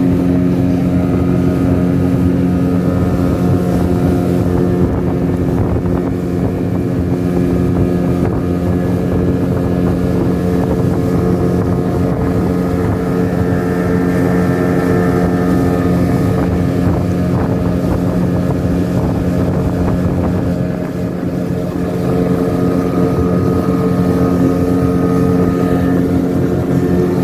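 Speedboat motor running steadily at an even pitch, with a brief dip in loudness about twenty-one seconds in.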